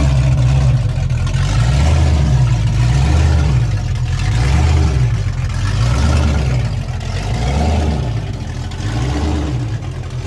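Car engine running close by, a loud low rumble that swells and eases about once a second.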